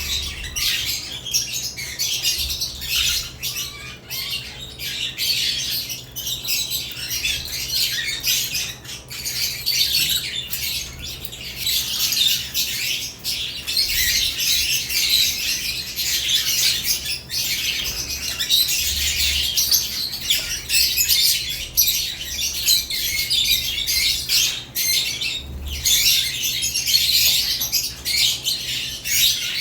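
Several caged lovebirds chirping and squawking in a continuous, dense, high-pitched chatter.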